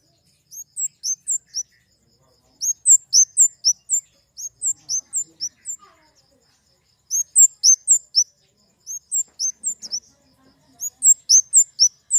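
Flowerpecker (kemade) calling: short runs of sharp, high, downward-slurred chips, five to eight notes at a time, repeated about six times with brief pauses between.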